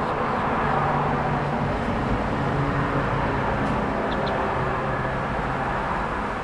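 Continuous road traffic noise with a low engine hum running under it. Two faint, short bird chirps come about four seconds in.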